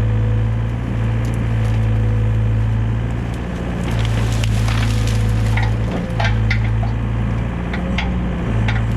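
Excavator's diesel engine running steadily while brush is pushed and crushed, with branches cracking and splintering in quick irregular snaps from about four seconds in.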